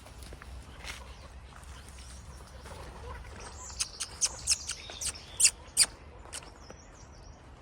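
Bird chirping: a quick run of about ten sharp, high chirps a few seconds in, the loudest two near the end of the run.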